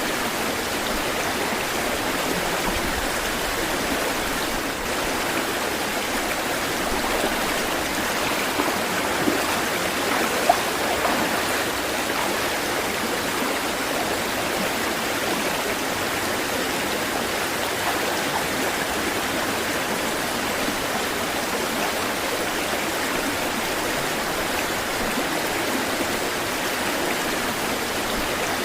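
Running water, a steady even rush like a stream flowing over rocks, with a couple of small splashes about nine and ten seconds in.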